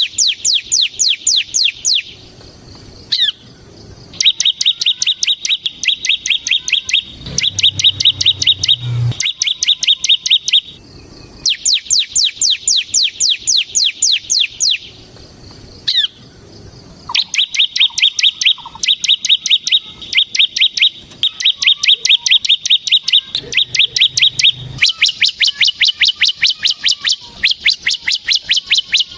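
Bar-winged prinia (ciblek) singing its fast 'ngebren' song: rapid, high-pitched trills of quickly repeated downward-sweeping notes, in runs of a few seconds broken by short pauses.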